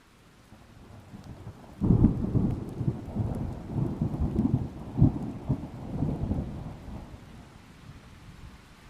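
A thunderclap: a low rumble builds for a second or so, breaks into a sudden loud crack, then rolls on in uneven low rumbles that fade away over about five seconds, with rain underneath.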